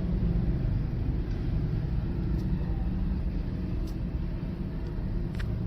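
Steady low rumble of background noise, with faint held tones mixed in.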